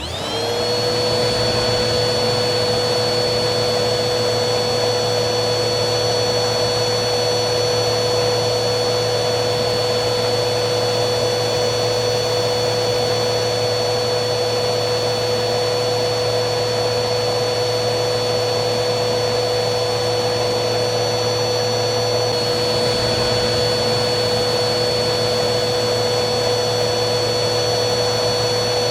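Vacuum cleaner switched on, its motor whine rising to speed within about a second, then running steadily: a high whine over a rushing airflow.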